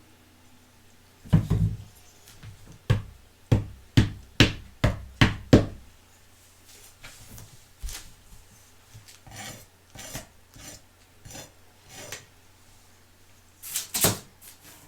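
A run of sharp knocks and clicks from hard objects being handled and set down on a surface: about eight quick knocks, then fainter scattered clicks, and a louder double knock near the end.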